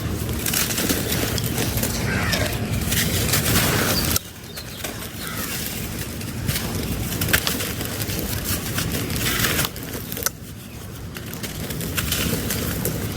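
Dried sand-cement texture being crumbled: a dense crackling full of small sharp clicks and grit. The sound drops off sharply about four seconds in and again near ten seconds, then builds back up.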